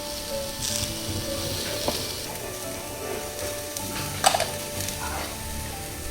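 Meat sizzling on a jingisukan (Genghis Khan) grill, coming in hissing surges, with a sharp clack of a utensil about four seconds in. Background music plays faintly underneath.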